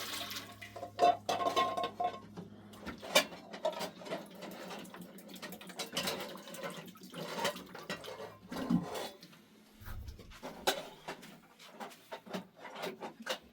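Plates and utensils being handled: scattered clinks and knocks of dishes.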